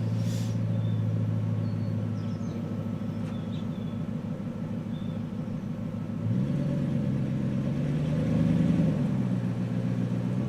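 5.4-litre Ford Triton V8 exhaust idling steadily. About six seconds in, the revs rise as it is given gas to pull the SUV out of muddy ruts, climb a little more for a couple of seconds, then settle back down.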